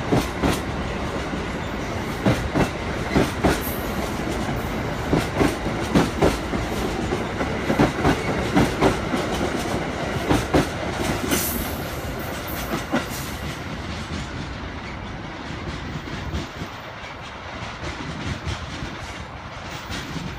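Amtrak Amfleet passenger coaches of a departing train rolling past, their wheels clicking over the rail joints in a steady clatter over a rumble. About two thirds of the way through, the clatter thins out and the sound falls off as the end of the train pulls away.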